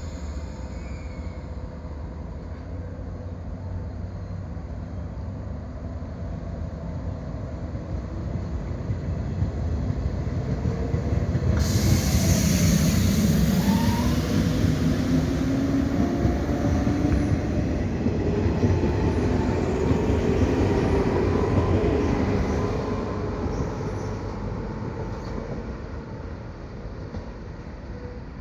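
Two coupled JR 115 series electric multiple units pulling away from a station and accelerating. A rumble builds to a peak and then fades as the train draws away. During the loudest part the traction motors whine, rising in pitch, and a hiss comes in suddenly about twelve seconds in.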